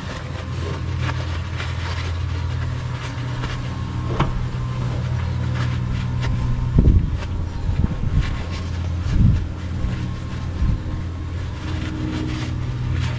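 A steady low mechanical hum, with faint clicks of handling and a few dull thumps around the middle.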